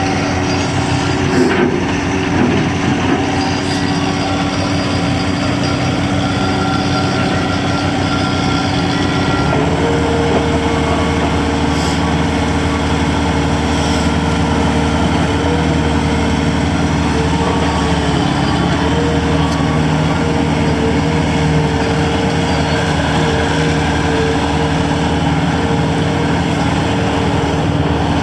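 Bobcat S530 skid steer loader's diesel engine running steadily, its note changing about ten seconds in as new higher tones come in.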